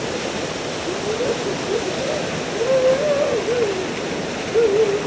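Waterfall pouring with a steady rush of water. Three short wavering tones rise and fall over it, about a second in, in the middle and near the end.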